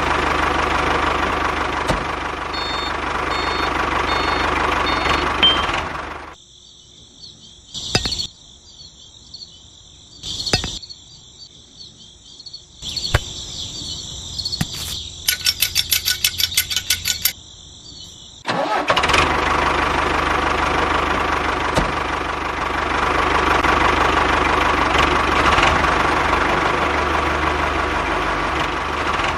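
Small electric motor of a homemade model tractor running with a steady whir, stopping about six seconds in and starting up again about two-thirds of the way through. In the quieter stretch between there are a couple of clicks and a quick run of ticks.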